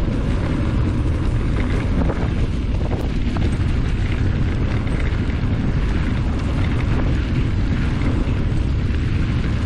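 Wind buffeting the microphone on the move, a steady low rumble with no let-up.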